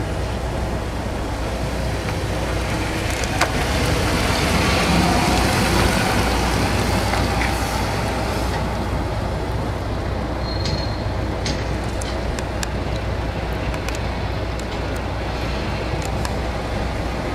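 Mercedes-Benz 560 SL's 5.6-litre V8 running as the car pulls out and drives away, loudest a few seconds in and then settling to a steady rumble. Scattered light ticks in the second half.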